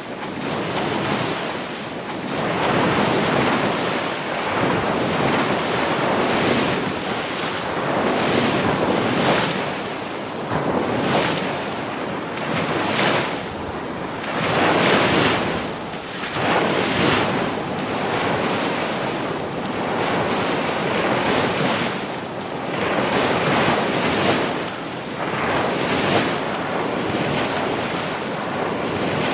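Ocean surf: waves breaking and washing in a continuous hissing rush that swells and eases every two seconds or so.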